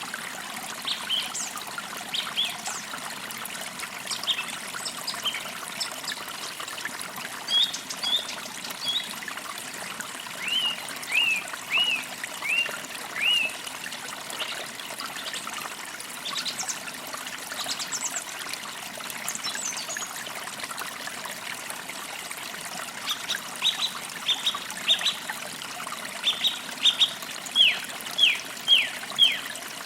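A forest creek trickling steadily, with songbirds chirping over it in quick runs of short, falling notes, busiest about a third of the way in and again near the end.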